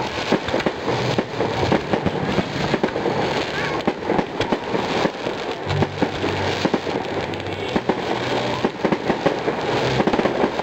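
Firework display in full swing: firework rockets going off in quick succession, a dense, unbroken run of bangs and crackles.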